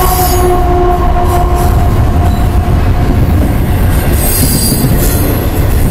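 Double-stack intermodal freight train's well cars rolling past close by: a steady, loud rumble of steel wheels on the rails. A high-pitched wheel squeal fades out about two seconds in.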